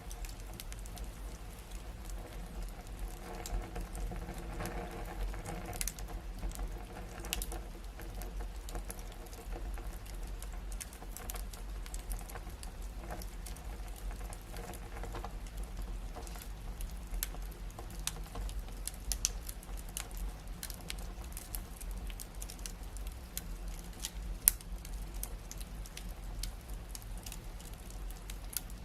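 Wood fire in a fireplace crackling: frequent small irregular pops and snaps over a low steady rumble. Late on, one sharper, louder pop stands out.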